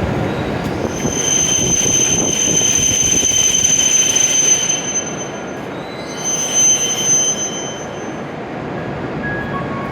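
Hokuriku Shinkansen E7 series train pulling in at low speed to stop, its wheels and brakes squealing in high, steady tones over a running rumble. The squeal sounds for a few seconds, breaks off briefly, returns, and dies away as the train comes to a halt.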